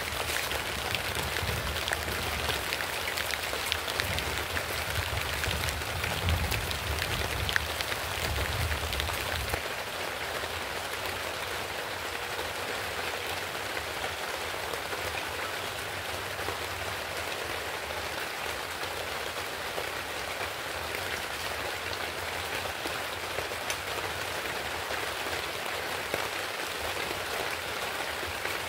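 Food sizzling steadily in a wok over a wood-fired clay stove. A low rumble sits under the sizzle for the first ten seconds or so and then stops.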